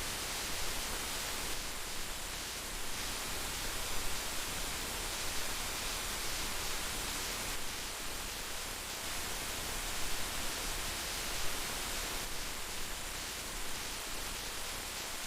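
Heavy rain falling steadily, a dense even hiss with small irregular spikes from heavier drops.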